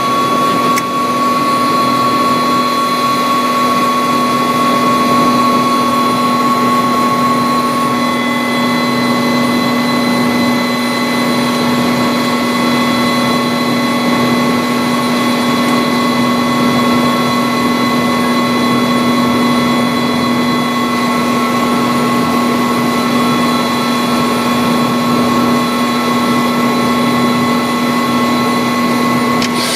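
Bell 407 helicopter's turboshaft engine and rotors running steadily: a constant turbine whine made of several held tones over a broad rushing noise, with one higher tone growing stronger about eight seconds in.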